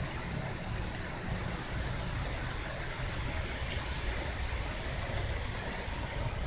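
Steady rushing noise with a low rumble underneath, even throughout with no distinct events.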